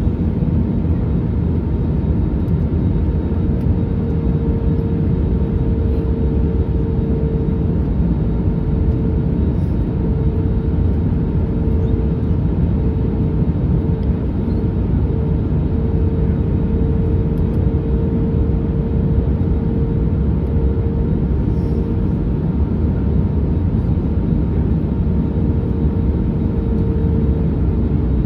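Cabin noise inside an Airbus A321neo during descent: a steady rumble of airflow and its Pratt & Whitney PW1100G geared turbofan engines, with a steady mid-pitched tone running through it that dips slightly near the end.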